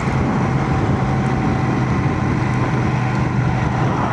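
Royal Enfield Shotgun 650's parallel-twin engine running at a steady speed under way, with wind and road noise, heard from inside a closed full-face helmet.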